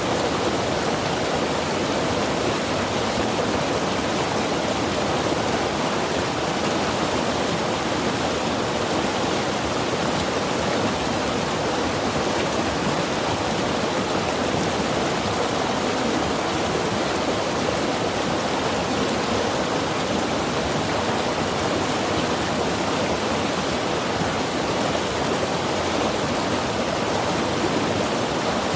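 Mountain river rushing steadily, a constant full roar of flowing water with no breaks or changes.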